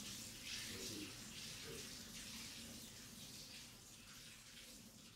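Dumplings frying in shallow oil, a faint steady sizzle that slowly fades away over the few seconds.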